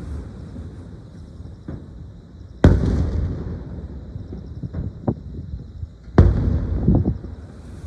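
Aerial fireworks shells bursting: two deep booms about three and a half seconds apart, each rumbling on for a second or more, with a few sharper cracks between and after them.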